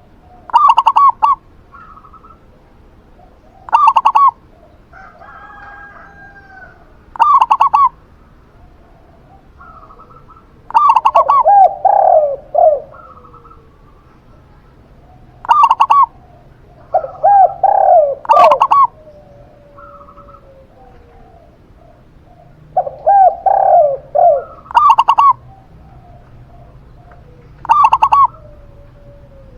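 Zebra dove and spotted dove cooing in turns. Short, stuttering coo phrases come every three to four seconds, some higher-pitched and some lower, with brief pauses between them.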